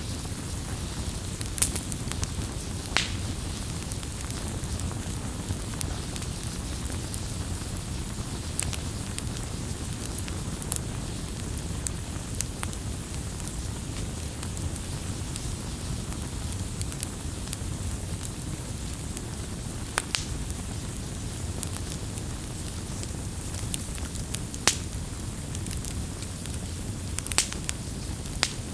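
Campfire burning: a steady low rush of flames with scattered sharp crackles and pops of burning wood, a few louder snaps among them.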